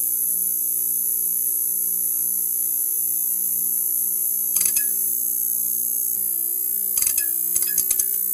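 Neon sign buzzing steadily under a loud high hiss, crackling with sharp electrical clicks a little past halfway and in a quick cluster over the last second and a half.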